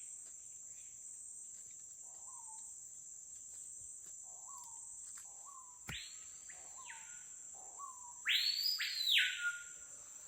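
A screaming piha (capitão-do-mato) calling twice, loud whistles that sweep up steeply and fall back, the second near the end the loudest, with softer short bird notes in between. A steady high insect drone runs underneath, and there is one sharp click a little past the middle.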